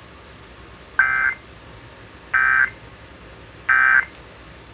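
Three short warbling data bursts of the Emergency Alert System's SAME signal, about a second apart: the end-of-message code closing the broadcast severe thunderstorm warning, with faint radio hiss between them.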